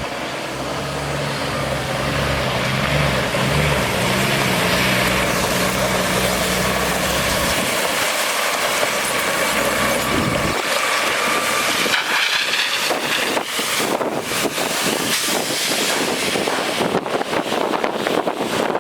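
Water truck's Cummins ISC diesel idling under a steady loud rush of water discharging from its spray system. The engine hum drops out about eight to ten seconds in, leaving the rushing water.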